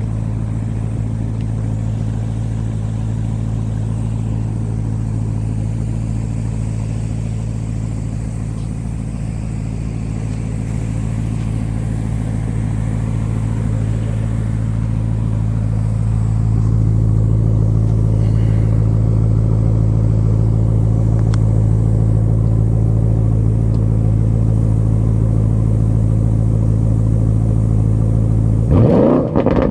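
Porsche Cayenne GTS's twin-turbo V8 idling steadily through its sport exhaust, getting a little louder about halfway through, then a sharp rev just before the end.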